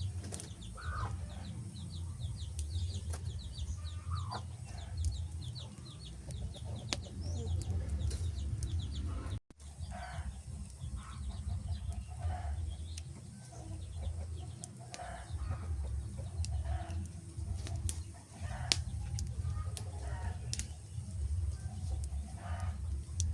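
Wood fire burning with a steady low rumble and scattered sharp crackling pops. Short animal calls repeat in the background, coming about every second in the later part. The sound drops out briefly about nine seconds in.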